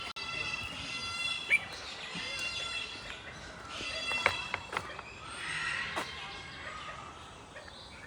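Birds calling: several drawn-out, even-pitched calls a second or so long, repeated with short gaps, with a few sharp clicks between them.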